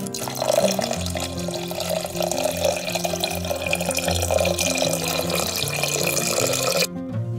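Water poured in a thin steady stream into a pot of thick chili and soybean-paste sauce, a continuous pouring and splashing that stops abruptly near the end. Background music plays underneath.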